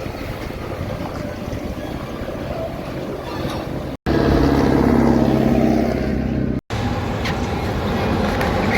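Road traffic noise from passing vehicles. Between two abrupt cuts in the middle, a heavy truck's engine runs louder and nearer, with a steady droning pitch.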